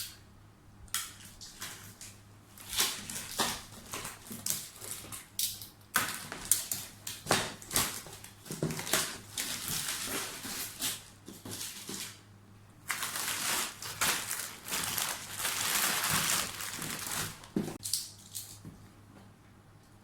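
Cardboard box and plastic packaging being opened and handled: repeated rustling, crinkling and scraping, with a longer stretch of steady rustling about two-thirds of the way in.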